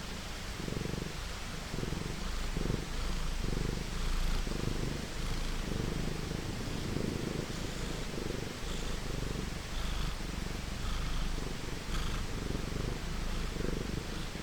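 Domestic cat purring in a steady rhythm, each breath in and out making its own pulse, over a steady hiss of rain.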